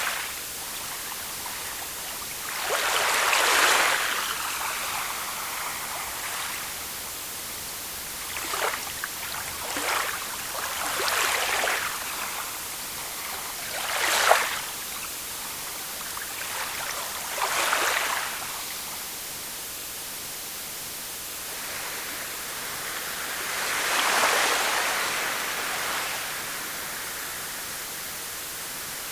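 Small waves washing onto a shore over a steady hiss of water, about eight washes of uneven size, each swelling and falling away within a second or two.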